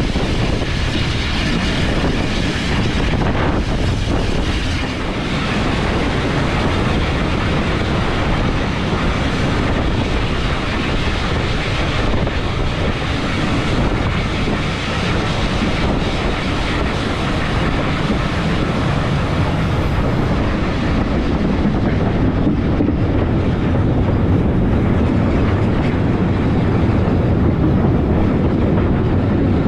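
Steam-hauled passenger train running along the track: a steady rumble of the carriage wheels on the rails.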